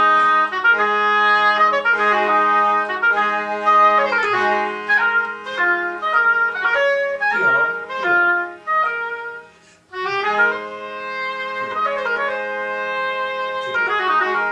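Oboe playing a rhythmic melodic phrase over a steady, sustained low note from a second instrument. The playing breaks off briefly about ten seconds in, then starts again.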